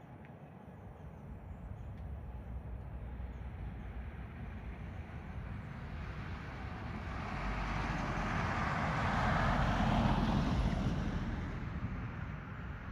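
Jet airliner passing close by: a rushing jet noise with a low rumble that builds steadily, is loudest about ten seconds in, then begins to fade.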